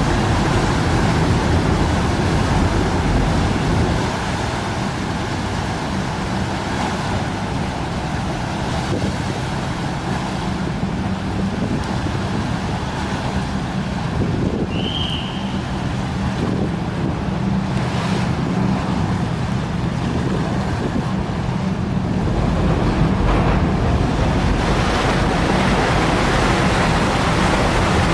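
A fast ferry's engines run with a low steady hum as it moves into its berth, over churning water and wind buffeting the microphone. The engine hum eases a few seconds in and swells again near the end. A single short high chirp comes about halfway through.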